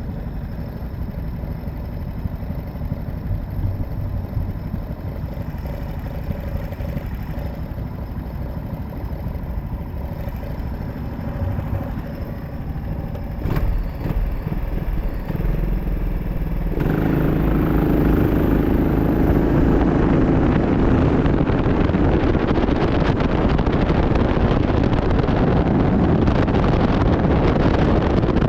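Kart engine running at low revs, then about 17 seconds in it gets suddenly louder as the kart accelerates under throttle.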